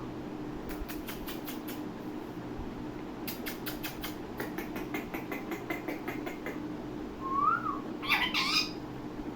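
Ringneck parrot sounds: two runs of rapid clicking chatter, a short rising-and-falling whistle about seven and a half seconds in, then a brief harsh squawk near the end, the loudest sound. A steady low hum runs underneath.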